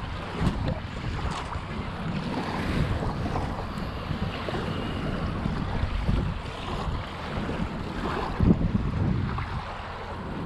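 Wind buffeting the microphone in uneven gusts over water lapping, with a few short knocks.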